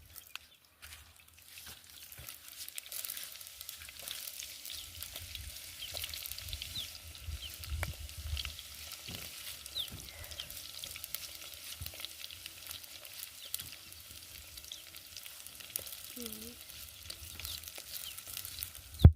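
Food frying in hot cooking oil in a pot: a steady crackling sizzle, dense with small pops.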